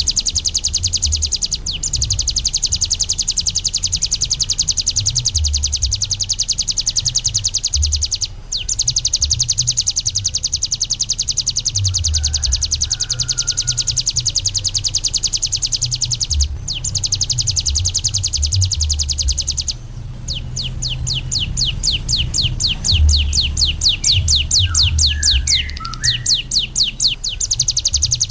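Bar-winged prinia (ciblek gunung) singing a loud, fast, unbroken high-pitched trill, pausing briefly a few times. About twenty seconds in it switches to a slower series of separate rising notes, about six a second, then goes back to the fast trill near the end.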